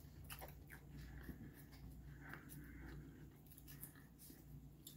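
Faint chewing and small mouth clicks of a person eating, over a low steady hum.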